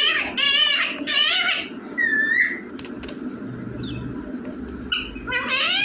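Indian ringneck parrot calling: a quick run of loud, wavering squawks in the first second and a half, one shorter call about two seconds in, and another near the end, with a few sharp clicks in between.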